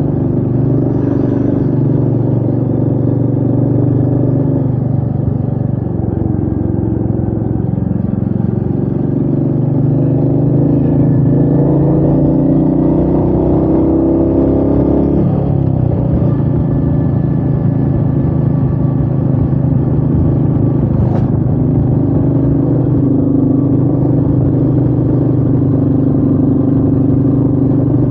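Royal Enfield Meteor 350's single-cylinder engine running under load with wind rush, the revs climbing for several seconds and then dropping suddenly about halfway through. A brief sharp click comes later on.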